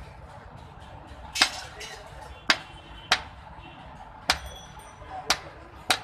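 Blacksmith's hammer striking iron on an anvil while forging a knife blade: six sharp, unevenly spaced blows, one about four seconds in leaving a brief metallic ring.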